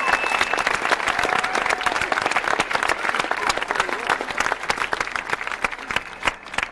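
Crowd applauding, the dense clapping thinning out and fading near the end.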